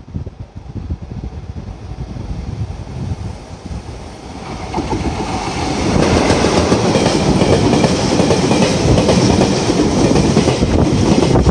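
JR Freight EF66 electric locomotive and its container wagons passing through a station at speed. A low rumble builds from about four seconds in into loud wheel-on-rail running and clatter as the locomotive goes by, and stays loud while the wagons follow.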